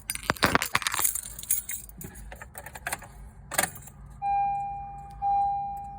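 Car keys jangling and clicking, then from about four seconds in a 2012 Honda Civic's warning chime starts, one clear tone about once a second, each fading away.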